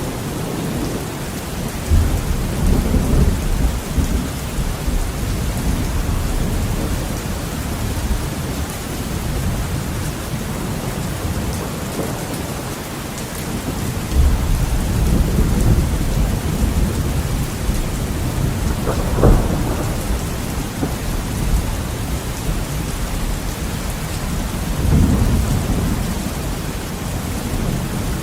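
Heavy rain falling steadily against a window, with thunder rumbling in low swells several times and one sharper crack about two-thirds of the way through.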